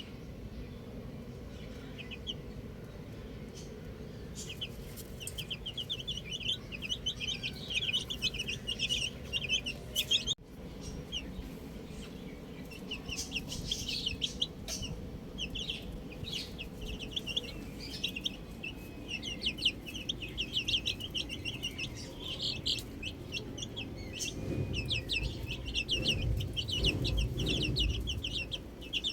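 Baby chicks peeping in a rapid, overlapping stream of short, high, falling chirps, starting a few seconds in. A low rumble runs underneath and grows louder near the end.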